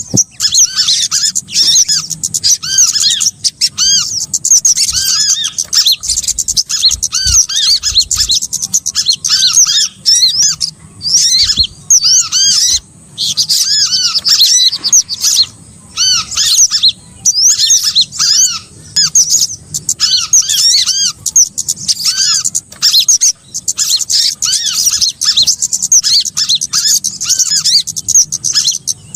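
Bird-trapping lure recording of small birds calling: dense, rapid, high chirps and short arching notes, coming in bursts with brief pauses between them.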